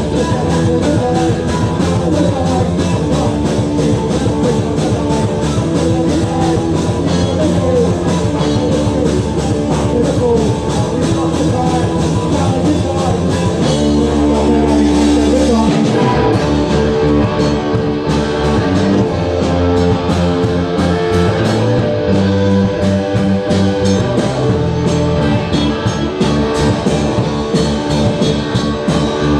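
Live rock band playing: electric guitar, bass and drum kit, with a chord held for a couple of seconds about halfway through before the beat picks up again.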